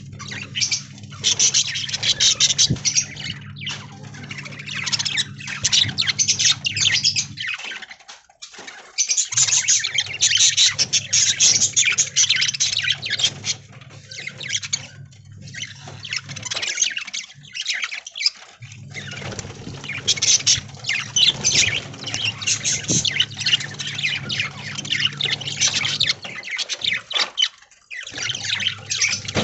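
A flock of budgerigars chattering and squawking continuously, over a steady low hum; the sound drops out briefly three times.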